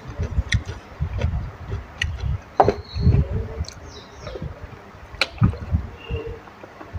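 Close-miked eating sounds: wet chewing and lip smacks on a mouthful of khanom jeen rice noodles in thick nam ya curry sauce, irregular, with several sharp smacks.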